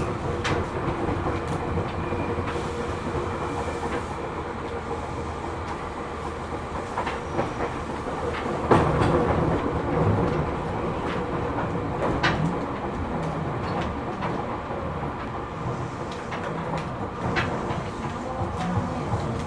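Interior running noise of a Seibu New 2000 series electric train under way: a steady wheel-and-rail rumble with scattered clicks over rail joints, and one louder clack about nine seconds in.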